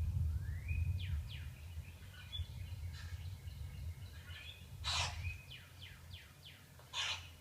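Small birds chirping and calling, with rising whistles and runs of quick downward-sweeping chirps, played back from a bird video. Two louder harsh bursts come about five and seven seconds in, over a low hum that fades out about five seconds in.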